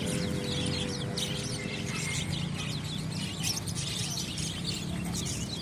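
Many caged songbirds chirping and twittering at once, quick overlapping high chirps from several birds, over a low steady hum of background noise.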